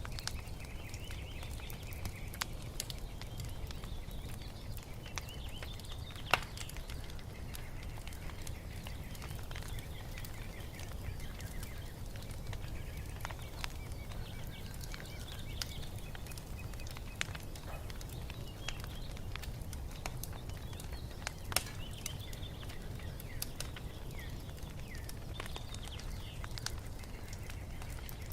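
Wood fire crackling with scattered small pops over a low steady rumble, two sharper snaps standing out about six seconds in and about two-thirds of the way through. Small birds chirp and twitter throughout.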